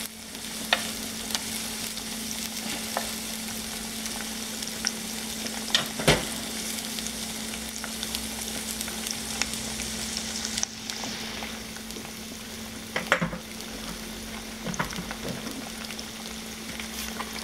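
Butter and tomato paste sizzling steadily in a stainless steel pot, with a few short knocks, the loudest about six seconds in.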